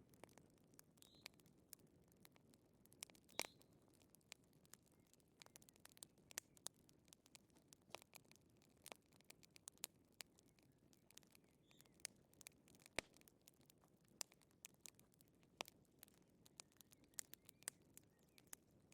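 Quiet crackling of a wood fire in a fireplace: irregular sharp pops and snaps over a soft low hiss, with a few faint high chirps in the first few seconds.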